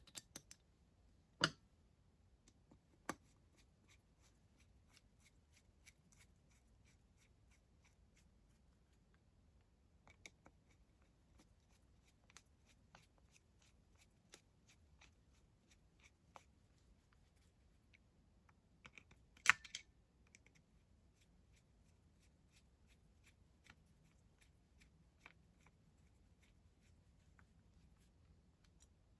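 Scattered clicks and taps of small metal parts and tools being handled on a workbench during carburettor work, with a few sharper knocks about a second and a half in, about three seconds in and, loudest, well past the middle.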